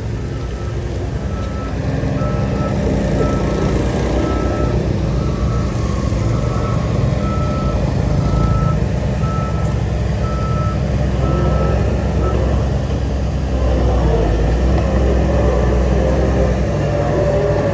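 Heavy machine's reversing alarm beeping steadily, about once a second, over a low diesel engine rumble. The beeping stops about twelve seconds in while the engine keeps running.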